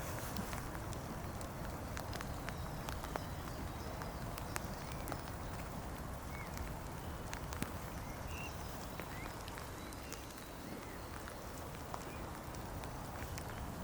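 Outdoor ambience in open countryside: a steady low rumble with scattered light clicks and ticks, and a few faint, short bird chirps about halfway through.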